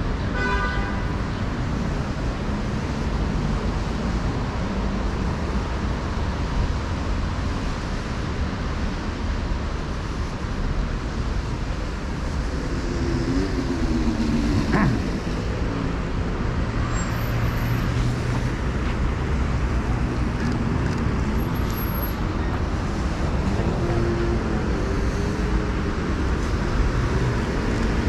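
Street traffic noise: a steady rumble of passing vehicles. There is a brief high tone in the first second and a short falling glide about halfway through.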